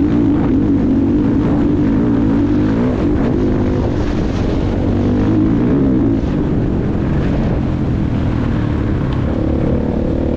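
Motocross bike engine running hard, loud throughout, its pitch climbing and dropping as the throttle is worked.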